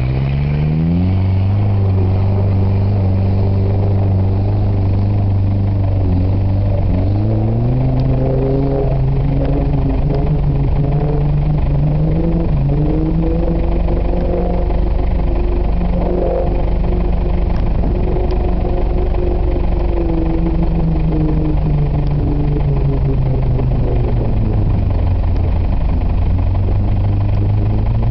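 Off-road vehicle engine running and revving, its pitch climbing about a second in and again a few seconds later, then rising and falling gently.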